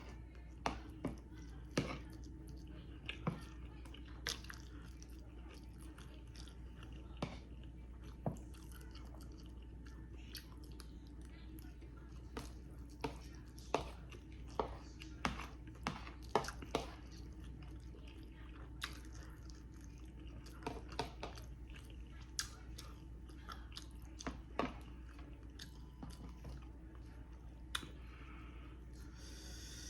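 A person chewing and biting food, with irregular sharp crunches and mouth clicks, over a steady low hum.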